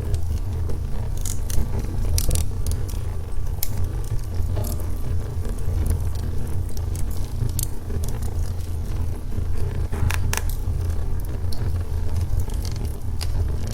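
Wood logs burning in a fireplace: a steady low rumble of the fire with scattered sharp crackles and pops, two of the strongest about ten seconds in.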